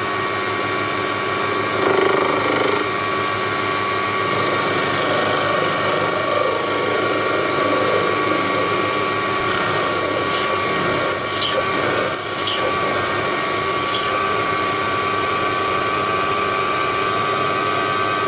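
Proxxon PD 250e mini lathe running with a steady motor whine while turning a brass washer. A higher cutting hiss comes in from about four seconds in, with a few short falling squeaks about two-thirds of the way through.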